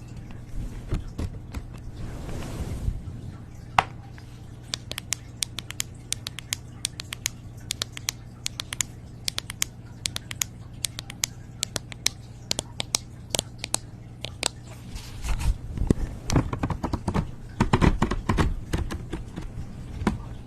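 ASMR trigger sounds: a long run of quick, sharp taps and clicks, turning about three-quarters of the way through into denser scratching and rustling, over a steady low hum.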